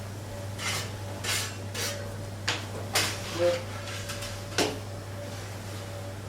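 Dishes and metal utensils clattering in a kitchen: about seven short, separate clinks and knocks spread over a few seconds, over a steady low hum.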